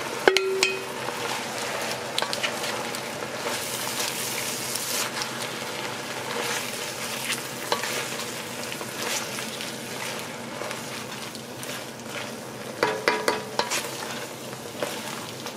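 Shrimp shells and fish bones sizzling in oil in an enamelled pot, stirred with a wooden spoon, with scattered clicks and scrapes as the shells are turned over. A brief run of louder scrapes comes near the end.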